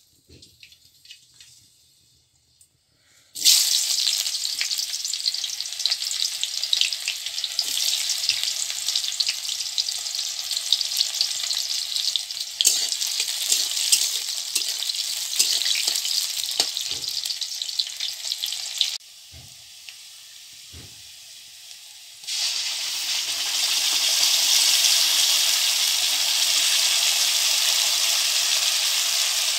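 Sliced onions frying in hot oil in a steel kadhai, with a loud sizzle that starts suddenly a few seconds in. A metal spatula scrapes and taps the pan as they are stirred. The sizzle falls away for a few seconds past the middle, then returns steadier.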